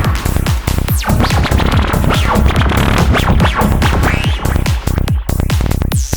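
Psytrance music built from analog modular synth effects: a driving bass throb under a run of quick synth zaps and sweeps, most of them falling fast in pitch.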